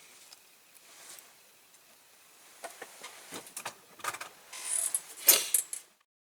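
Small parts being handled on a workbench, likely rivets and their packets being put away: faint at first, then a string of light clicks and knocks with a brief rustle, the loudest click near the end.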